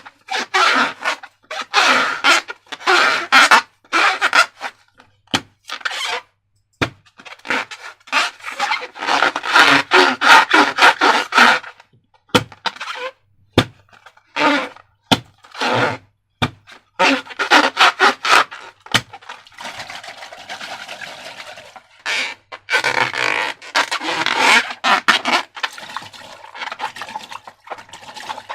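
Slime being squeezed and worked by hand: irregular bursts of sticky squishing, crackling and scraping with short pauses and a few sharp clicks.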